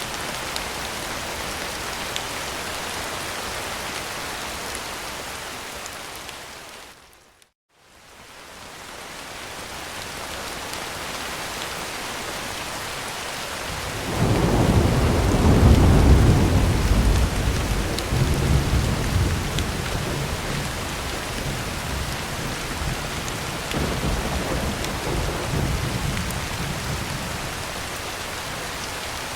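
Heavy rain falling steadily on a tin roof. It fades out to silence for a moment and fades back in. About halfway through, a loud clap of thunder breaks in and rumbles on for several seconds, with a second swell of rumbling near the end.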